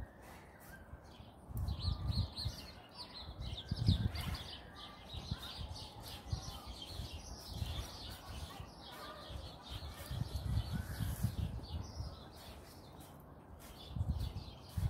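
Small birds chirping in quick runs of high notes, with a few dull low rumbles swelling and fading.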